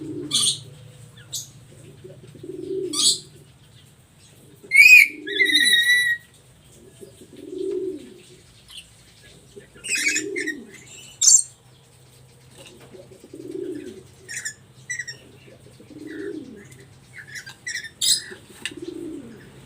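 Black-capped lory giving shrill squawks and whistles, the loudest a rising whistle followed by a warbling trill about five seconds in. Under the calls a low coo repeats about every three seconds.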